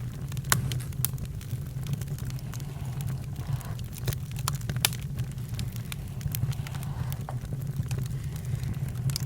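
Campfire crackling: irregular sharp pops and snaps over a steady low rumble, with the loudest pops about half a second in and near the five-second mark.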